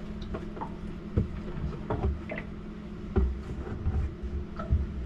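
Irregular knocks and thumps, as of gear being moved about, over a steady low hum.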